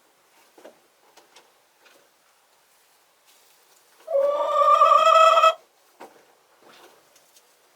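A chicken gives one loud, long call lasting about a second and a half, starting about four seconds in. Faint short scratches and clicks come before and after it.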